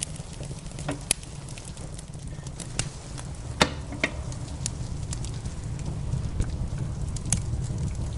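Wood fire crackling in a fireplace: scattered sharp pops and snaps, the loudest about three and a half seconds in, over a steady low rumble.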